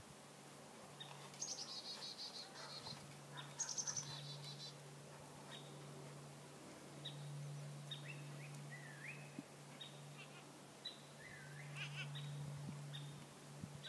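Songbirds singing: two quick, high trilled phrases in the first few seconds, then scattered short chirps and a few whistled gliding notes, over a low steady hum that swells and fades twice.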